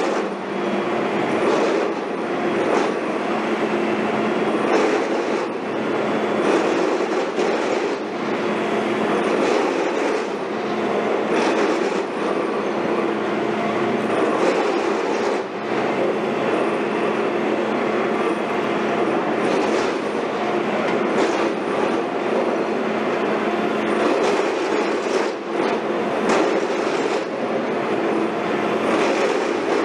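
Heavy construction machinery running steadily, with irregular metallic clanks and knocks throughout.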